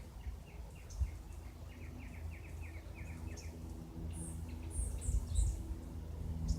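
A small single-engine Cessna's propeller engine droning overhead, a steady low hum that grows louder over the second half. A small bird chirps quick, repeated falling notes through the first half, with a few higher whistles later.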